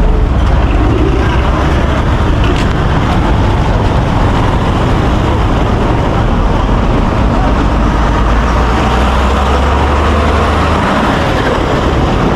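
Steady rumble of road traffic, engines and tyres, with a low engine drone that drops away near the end.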